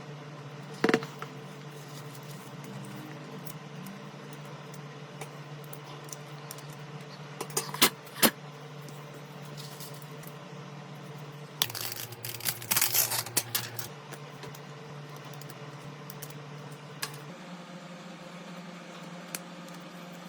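Steady hum with scattered sharp clicks: one about a second in, two close together around the middle, then a short burst of clicking and rattling, like small hard parts or tools being handled.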